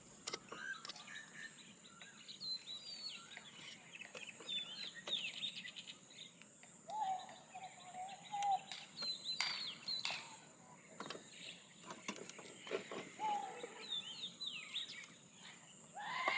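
Birds chirping and calling in short twittering phrases throughout, with a longer, wavering call about halfway through and scattered sharp clicks. A thin, steady, high-pitched whine runs behind them.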